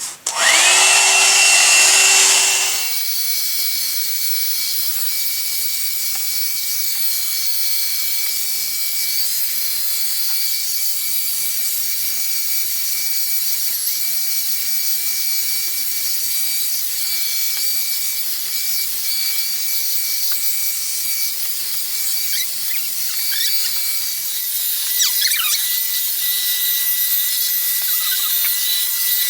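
One-step hot-air brush hair dryer and volumiser switched on: its motor spins up with a rising whine, louder for the first two seconds or so, then runs steadily with a high whine over rushing air. About 24 s in the sound changes, the whine settling slightly lower and the lower rumble dropping away.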